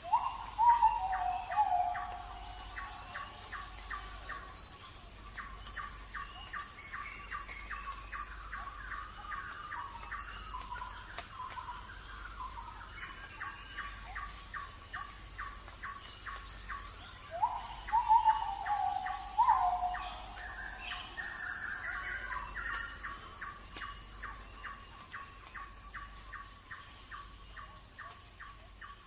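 Wild birds calling: one keeps up a fast, even series of short chirps, about three a second, while louder falling calls come in twice, near the start and again about two-thirds of the way through, over a faint steady high-pitched whine.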